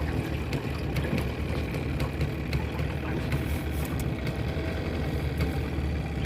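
Small outboard motor on a flat-bottom boat running steadily, a motor the owner says is still "a little sick".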